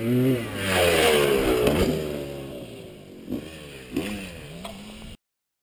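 Dirt bike engine revving, its pitch rising and falling as the throttle is worked. The sound cuts off abruptly about five seconds in.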